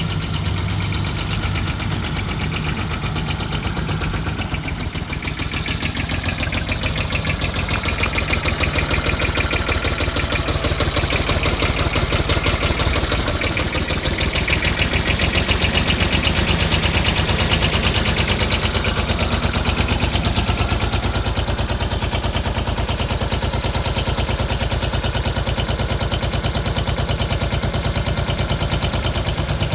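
Hinomoto N179 compact tractor's diesel engine running steadily at low speed with a rapid, even firing clatter. It grows somewhat louder about a third of the way in, then settles back.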